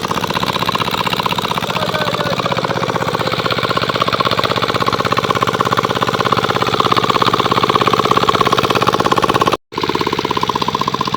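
20 HP Lister-type diesel water-pump engine running steadily under its own power, a fast even knocking beat from its firing strokes. The sound drops out completely for a moment near the end.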